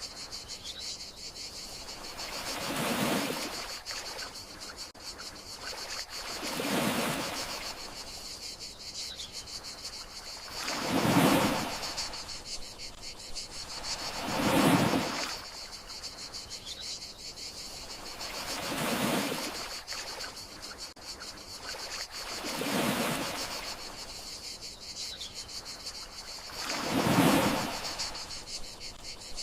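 Gentle sea waves washing in about every four seconds, each one swelling and then fading, over a steady high chirring of crickets.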